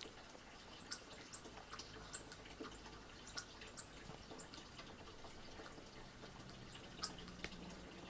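Faint, scattered short high chirps and chip notes of small feeder birds, played through laptop speakers.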